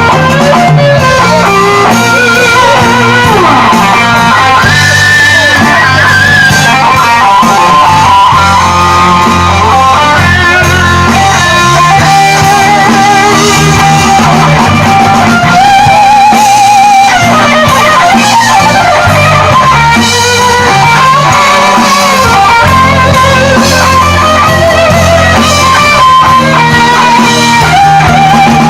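Live rock band playing an instrumental passage: an electric guitar plays a lead line with bending, wavering notes over bass guitar and rhythm guitar.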